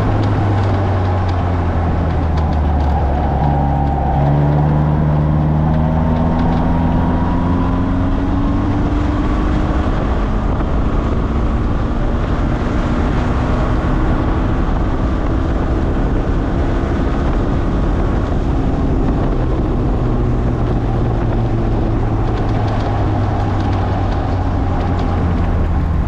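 Morgan sports car engine running hard on a sprint lap, heard onboard, its pitch slowly rising and falling as the driver accelerates and lifts, over a steady rush of wind and road noise.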